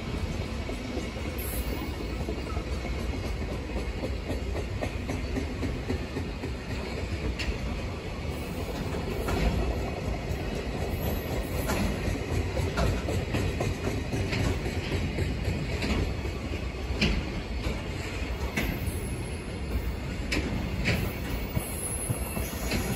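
Long container freight train rolling slowly past as it runs into the freight terminal, its wagon wheels clacking over the rail joints with brief wheel squeals now and then.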